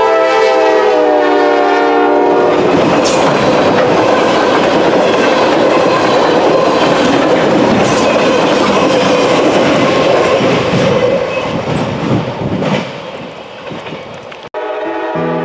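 Locomotive air horn sounding a chord that dips in pitch as it passes, then the train rolling by with loud wheel noise and clickety-clack on the rails, which fades away. Music cuts in abruptly near the end.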